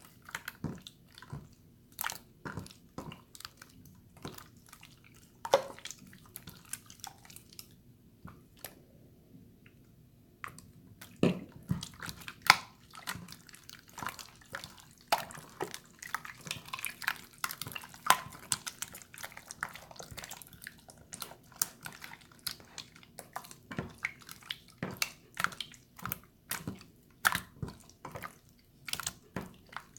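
Water slime being squished and pressed by hand, giving a stream of irregular wet clicks and pops, with a short lull about eight seconds in.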